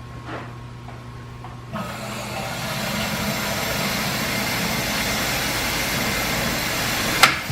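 Steady mechanical running noise that cuts in abruptly about two seconds in, after a low hum, and holds steady. A single sharp click comes near the end.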